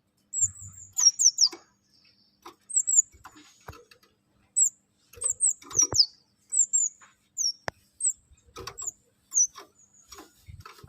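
A small songbird singing short, high, squeaky notes that sweep downward, some single and some in quick runs of two or three, with small clicks between them. It is a bird-keepers' song recording for tutoring young captive birds.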